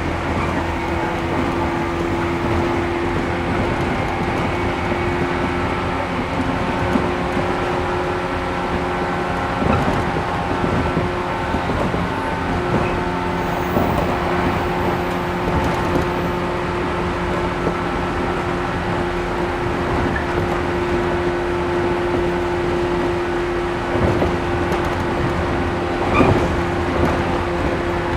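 Inside a 113 series 1500-subseries electric train running at a steady speed: a steady hum of several unchanging tones over wheel and track noise, with a few brief knocks along the way.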